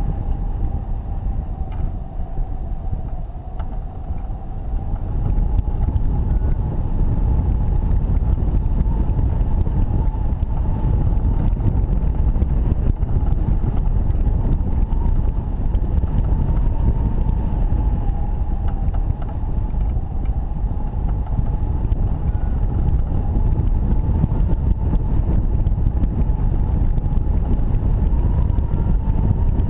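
Strong airflow rushing over the microphone during a hang glider flight, with a steady high tone that wavers slightly in pitch throughout.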